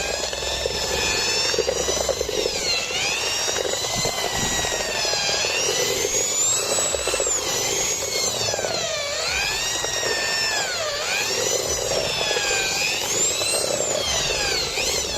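INGCO ID11008 1100 W corded impact drill running with a steady motor whine, its pitch dipping and rising again several times.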